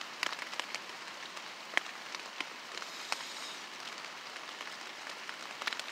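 Steady rain hissing, with scattered individual drops ticking sharply on a nearby surface; one drop is louder, a little under two seconds in.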